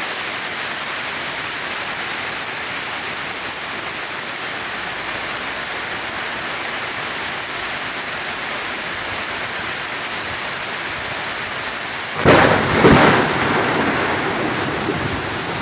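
Heavy rain falling steadily. About twelve seconds in, a loud clap of thunder cracks twice in quick succession and rumbles away over a couple of seconds.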